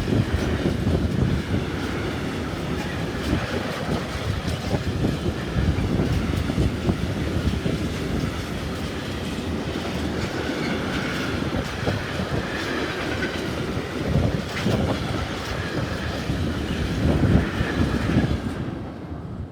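Freight train of tank wagons rolling past at speed: a steady rumble with wheels clattering over the rail joints, and a faint high squeal in the middle. It cuts off sharply near the end.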